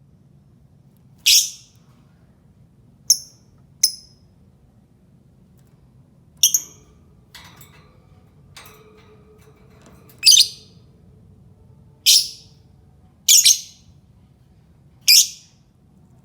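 Lovebird giving short, shrill calls, about eight in all, one to three seconds apart, one of them doubled near the end.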